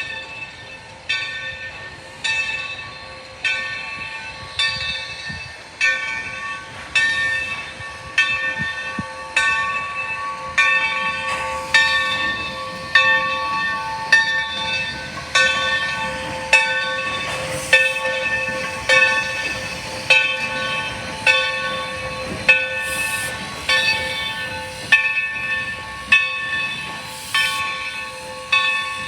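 Steam locomotive's bell ringing steadily, a little under one stroke a second, each stroke ringing on and fading before the next.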